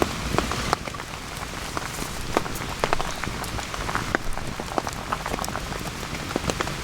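Steady rain falling, with many irregular, sharp close drops striking among the patter.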